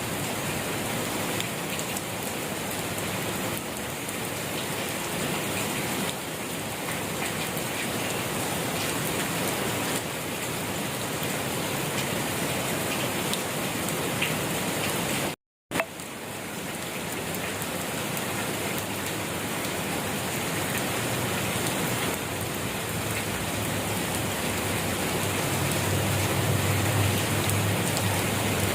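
Steady rain falling on a surface, an even hiss of many drops. It cuts out completely for a fraction of a second about halfway through, and a low rumble rises in the bass near the end.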